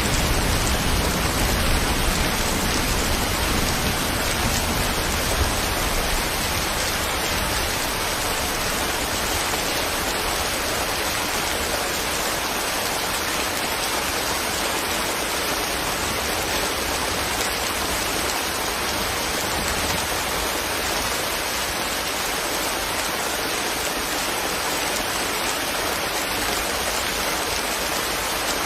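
Steady rain falling, an even hiss of many drops. A low rumble underneath dies away over the first few seconds.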